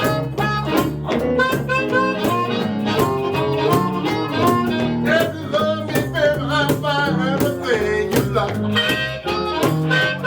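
Live blues band playing: a harmonica carries the lead with held and bent notes over a bass line and a steady rhythmic beat.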